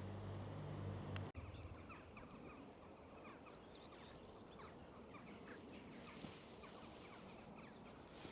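Wind noise with birds twittering: many quick, high chirping notes. In the first second or so a low steady hum, which cuts off abruptly.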